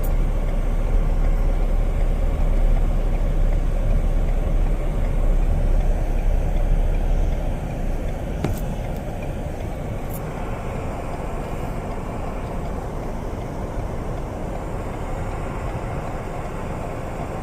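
Steady road and engine rumble of a moving car, heard from inside, louder for the first eight seconds and then easing off, with two faint clicks partway through.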